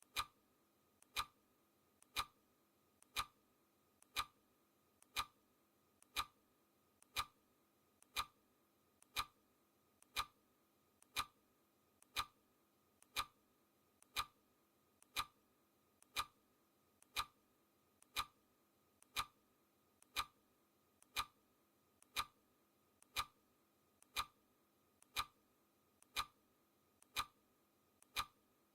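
Clock ticking sound effect: a steady tick once a second, each loud tick preceded closely by a fainter click.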